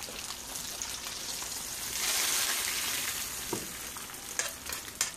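Steady sizzling of food frying on the stove, swelling louder for about a second midway, with a few light knocks of a utensil against a pot near the end.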